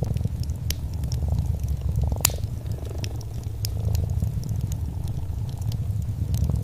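A cat purring steadily in a low rumble, with a wood fire crackling in scattered sharp pops; the loudest pop comes a little over two seconds in.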